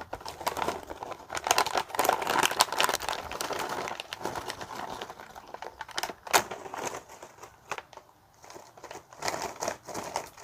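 Plastic snack bag crinkling as cheese ring snacks are shaken out of it onto a plate of noodles. The rustling is busiest for the first four seconds, then thins to scattered crinkles and clicks.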